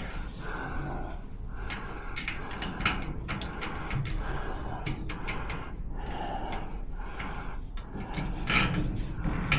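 Irregular small metallic clicks, rattles and scrapes of hands and tools working at the back of a garage door lock cylinder, feeling for its cam.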